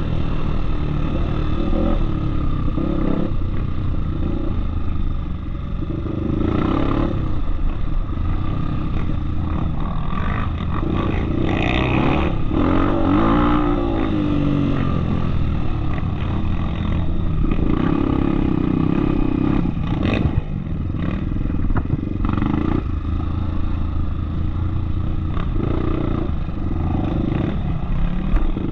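Off-road trail motorcycle engine running, its revs rising and falling, with a rev swing around the middle.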